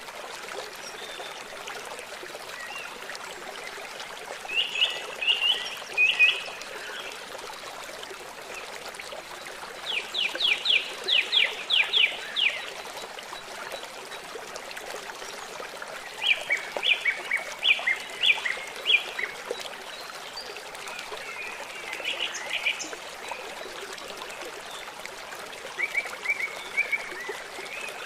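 Steady trickling of running water in a forest, with a songbird singing. The bird gives a short, rapid, trilled phrase about every five or six seconds, five in all, and the one about ten seconds in is the loudest.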